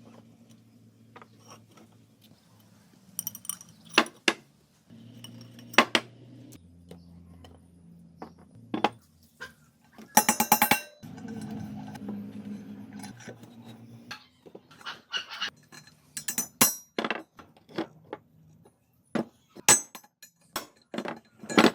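Metal parts and hand tools clinking and knocking, with scattered sharp taps and a quick rattle of strikes about ten seconds in.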